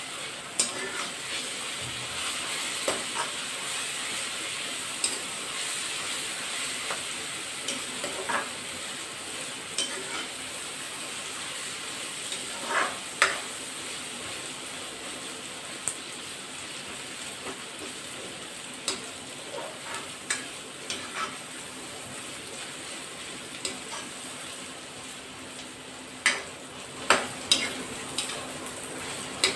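Sliced onions and ginger-garlic paste sizzling steadily in hot oil in a metal kadai, stirred with a steel ladle that scrapes and clinks against the pan at irregular moments, a few louder knocks near the end. The paste is being fried to cook off its raw taste.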